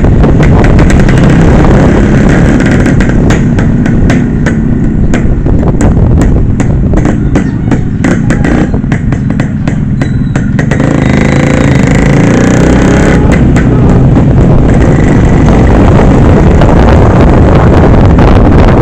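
Loud, steady engine and road noise from a moving motor vehicle, likely a motorcycle.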